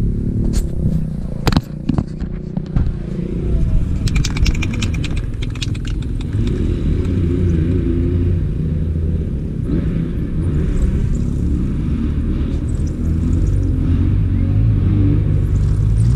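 Low rumble of wind buffeting the microphone, with a few sharp clicks near the start and a quick run of rattling clicks about four seconds in.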